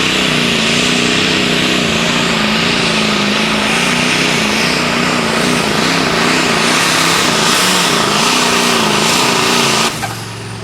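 Limited Pro Stock pulling tractor's turbocharged diesel engine running at full power under load, its pitch wavering up and down over a strong hiss. The sound drops off suddenly near the end as the pull finishes.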